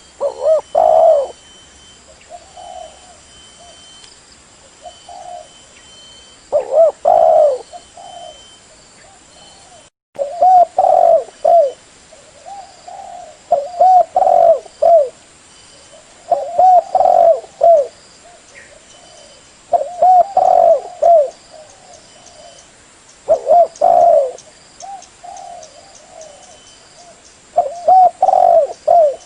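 Spotted dove (terkukur) cooing: loud, low, repeated coo phrases every few seconds, with a brief cut in the sound about ten seconds in.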